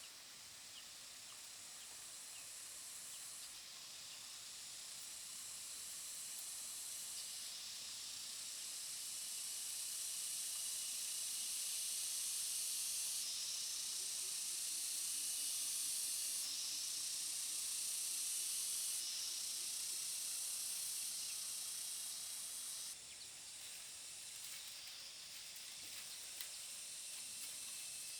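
Cicadas in a steady high-pitched chorus that swells toward the middle and drops off abruptly about three-quarters of the way through.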